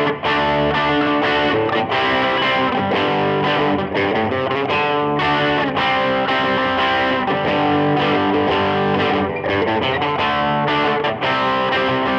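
Les Paul electric guitar played through a Nobels overdrive pedal into a Vox AC30 amp model, with reverb: overdriven chords and riffs played continuously.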